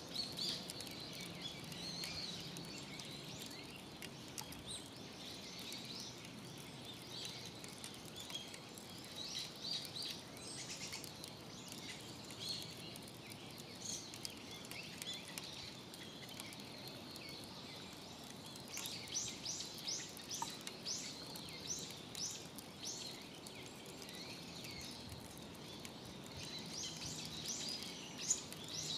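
Wild birds chirping and calling over and over outdoors, with a quick run of rapid repeated calls about two-thirds of the way through and again near the end.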